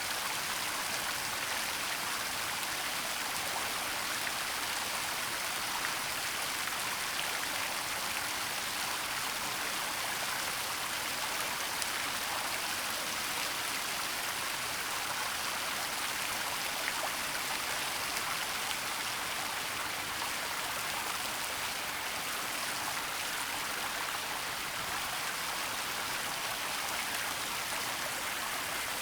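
Waterfall pouring steadily in a forest: an even, unbroken rushing hiss of falling water, mostly in the upper range with little low rumble.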